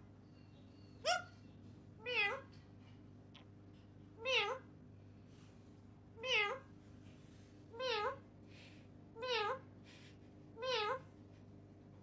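A parrot imitating a cat's meow: a quick rising call about a second in, then six near-identical meows with a wavering pitch, one every second and a half to two seconds.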